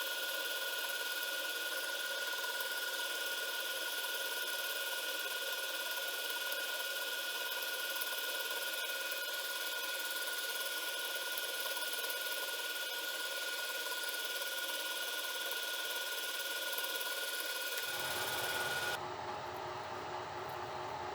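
Home-built CNC milling machine's spindle running with a steady high whine and a hiss of noise. About two seconds before the end the whine cuts off suddenly and a lower rumble takes its place.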